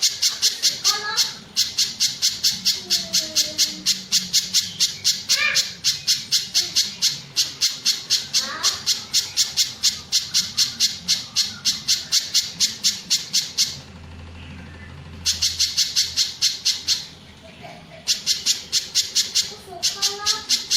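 A pijantung gunung (spiderhunter) calling in a fast, even series of sharp high chips, several a second. The series breaks off twice, briefly, and starts again.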